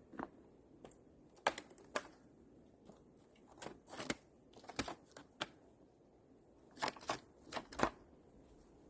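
Footsteps crunching, a dozen or so irregular crisp steps, some in quick pairs.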